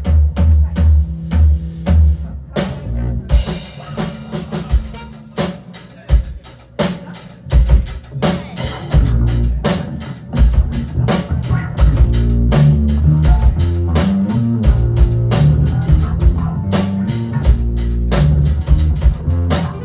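A band playing an up-tempo funk instrumental, with drum kit, bass and electric guitar; the groove drops out briefly about three seconds in and then carries on.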